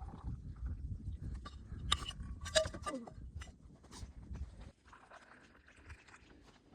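Low rumbling handling noise with scattered clicks and rustles, and a short whine falling in pitch about two and a half seconds in.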